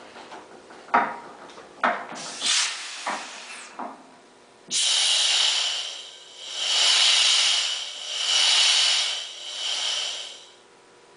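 A few sharp clanks and knocks, then a loud hiss that swells and fades four times before cutting off.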